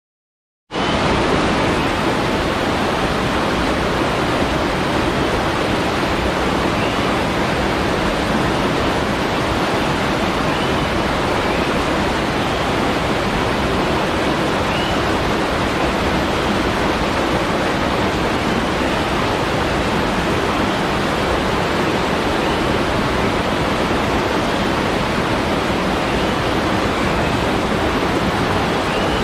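Waterfall's steady rush of falling water, starting abruptly about a second in.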